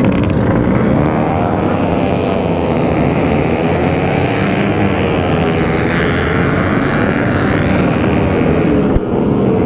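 Yamaha RX-King 135cc two-stroke engine running hard at high revs through an aftermarket side-exit exhaust, its pitch drifting slightly up and down. There is a short click near the end.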